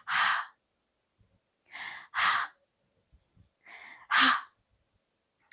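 A woman's breathy, voiceless "hh" sound, the letter H's sound, puffed out three times about two seconds apart, each a soft breath followed by a stronger one.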